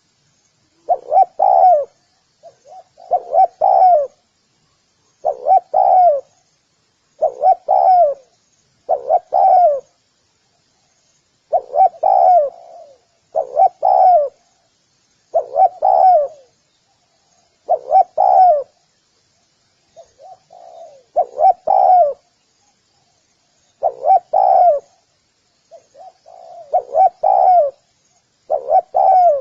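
Spotted dove cooing, the same short phrase repeated about every two seconds, with faint high chirping of small birds behind it.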